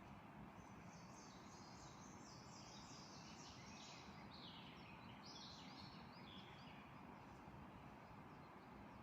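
A songbird singing faintly: one long phrase of quick, high chirping notes that steps down in pitch, over a steady background hiss.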